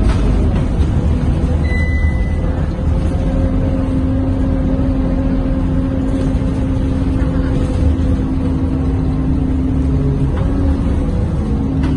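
Scania K230UB bus's diesel engine and drivetrain heard from inside the passenger cabin: a steady low rumble with a whine that holds a fairly even pitch. A brief high tone sounds about two seconds in.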